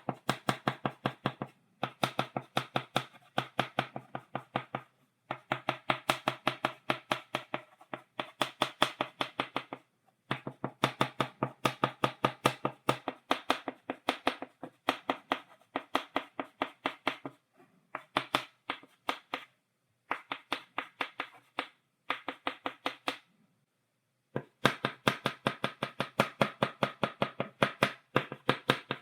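Chalk tapped rapidly on a blackboard to stipple dots, several sharp taps a second in runs of a few seconds with short pauses between them.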